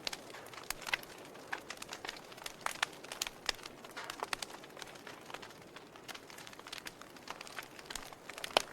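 Wood logs burning in a fireplace, crackling: irregular sharp pops and snaps over a soft hiss, with one louder snap near the end.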